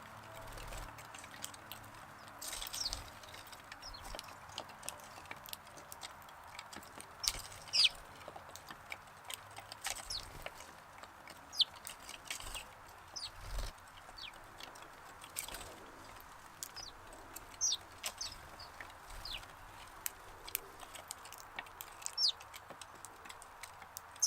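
Sparrows chirping: short, sharp, downward-sliding chirps, scattered irregularly, over a steady faint outdoor hiss, with a few soft low thumps.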